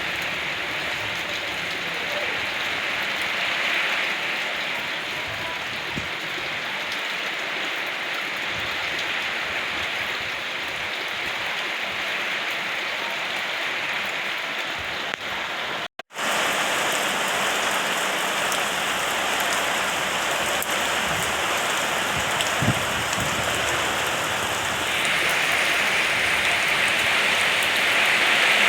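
Steady rain falling. About halfway through it cuts out for a split second, then resumes a little louder, and it swells again near the end.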